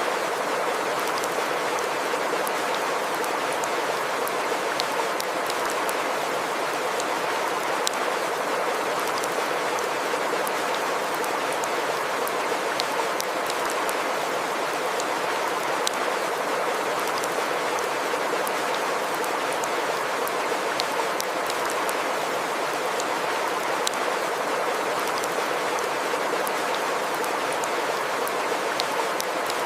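Steady wash of water with scattered sharp drips and splashes ticking through it.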